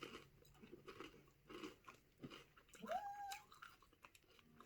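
Someone chewing a crunchy Popcorn M&M's candy, with faint, scattered crunches. About three seconds in, a short high-pitched call rises and then holds briefly.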